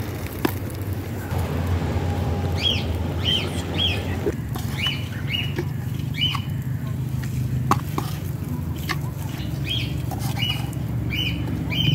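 A small bird chirping in short, high, repeated notes, in groups of two or three, over a steady low rumble. A few sharp knocks come in between.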